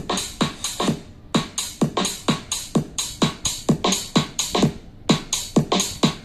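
Electronic dance music played through an OontZ Angle 3 Ultra Bluetooth speaker for a bass test. A steady kick beat comes about four times a second, each kick falling in pitch, with brief breaks about a second in and again near the five-second mark.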